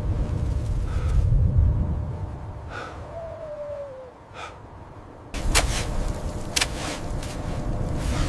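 Low wind rumble with a woman's gasping, laboured breaths every second or two, the breathing of labour pain. About five seconds in the wind cuts back in louder, with sharper gasps over it.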